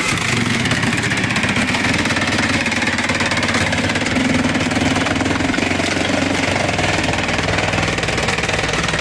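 Engine-driven wood-processing machine running steadily, its engine drone overlaid with a fast, continuous mechanical clatter.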